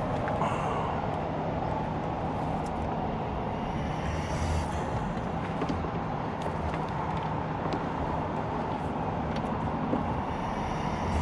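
Bucket truck engine running steadily, a constant low drone with a held hum.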